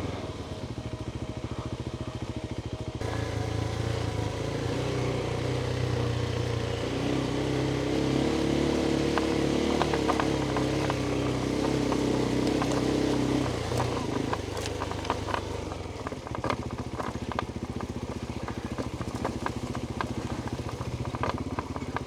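Adventure motorcycle engine running at low speed, opened up to higher revs for several seconds in the middle, then easing back. Many sharp clicks and clatter from the trail surface run under it through the second half.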